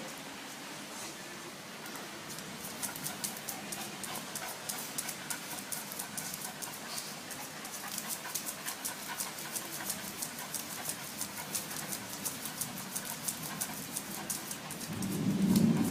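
A dog panting in a quick, even rhythm. A louder, low sound comes just before the end.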